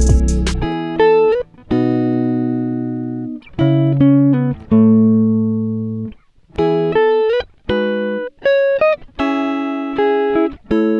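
Background music: a guitar playing slow, separate plucked notes that ring and fade, bending up into some of them.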